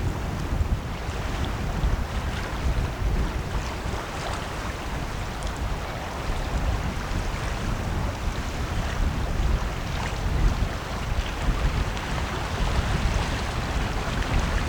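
Wind buffeting the microphone: an uneven low rumble that rises and falls, over a steady hiss.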